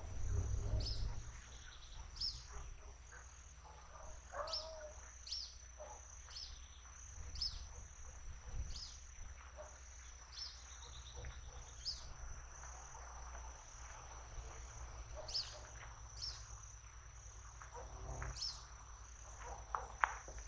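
Steady high-pitched insect trill, like a cricket chorus, with a bird giving short, high, downward-sliding call notes about once a second or so, over a low background rumble.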